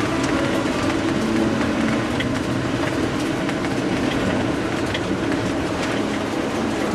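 Steady road and engine noise inside a moving car's cabin, with a constant low hum and a few small rattles and clicks.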